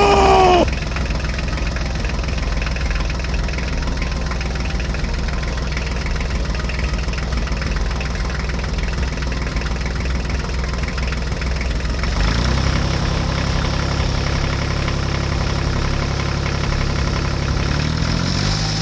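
Tractor engine running steadily at idle, stepping up to a higher speed about twelve seconds in and rising again near the end. A short wavering tone sounds at the very start.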